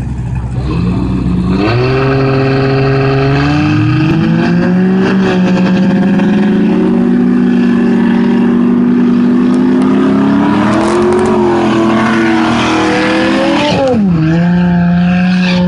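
Turbocharged Lexus SC300's 2JZ straight-six revving up in steps, then held at high revs for several seconds while the rear tyres spin in a burnout, with tyre noise over the engine. Near the end the revs rise once more and then drop sharply to a steady lower note.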